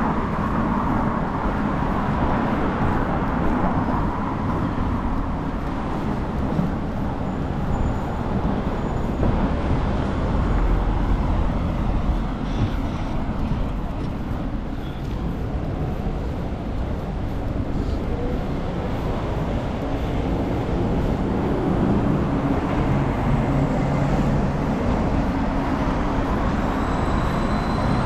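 Urban road traffic: a steady noise of passing cars and other motor vehicles, with a deeper rumble that swells for a few seconds midway.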